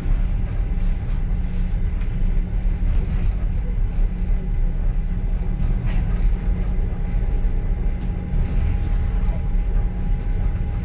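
Passenger train carriage running, heard from inside: a steady low rumble, with a faint steady high tone that grows stronger in the second half.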